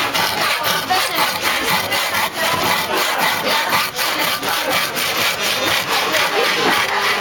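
Wood being sawn by hand, in quick, even back-and-forth strokes of about three a second.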